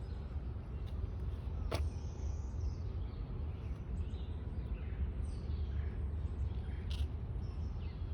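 Outdoor park ambience: a steady low rumble with faint, scattered bird chirps above it, and two brief sharp high chirps, one about two seconds in and one near the end.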